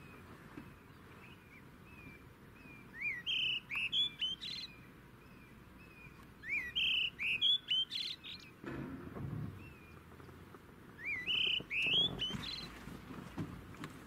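A bird calling in three bursts, each a quick run of rising whistled notes, with softer repeated chirps between them.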